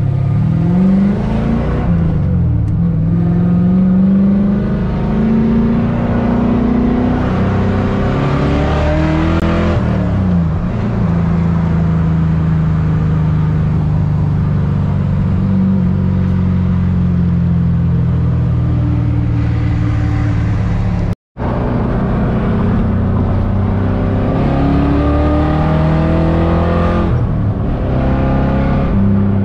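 Fox-body Ford Mustang's engine pulling the car through the gears. Its pitch rises in a gear and drops at each shift, a few times over, with steadier cruising stretches between.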